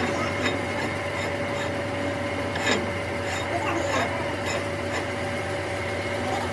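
A workshop machine running with a steady hum, with a light tick about twice a second.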